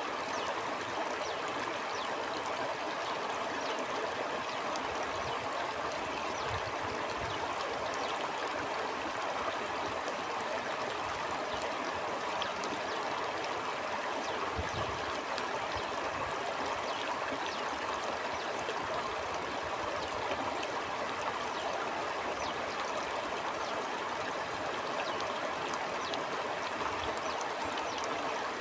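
Stream water flowing steadily over stones, a continuous rushing with small splashes and gurgles, and now and then a faint low rumble.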